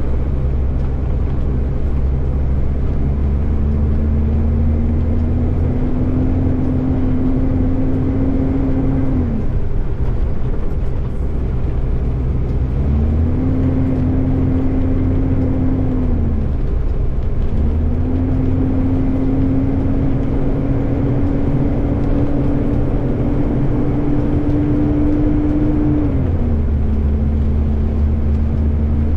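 Acco rubbish truck's diesel engine driving along, its note climbing slowly and falling away a few times as it works through the gears, under heavy wind rumble on a camera mounted on the front of the truck.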